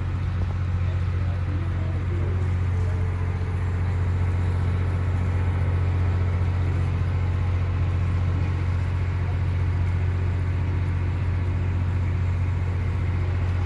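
A boat's engine running steadily, a loud, even, low drone with the rush of the hull moving through water.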